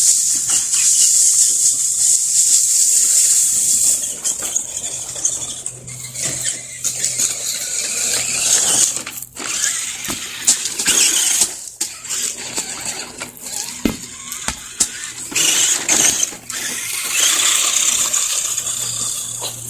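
Axial SCX10 RC crawler's electric motor and gearbox whining high-pitched as it drives, easing off after about four seconds and picking up again near the end. In between come scattered clicks and knocks.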